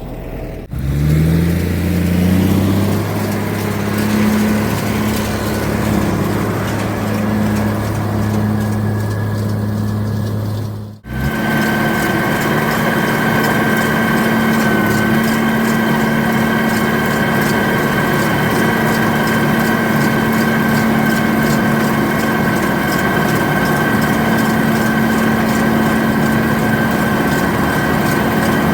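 White 2-135 tractor's diesel engine running steadily under load while pulling a round baler. The sound breaks off and changes abruptly twice, about a second in and again about eleven seconds in; after the second break a steady high whine sits over the engine.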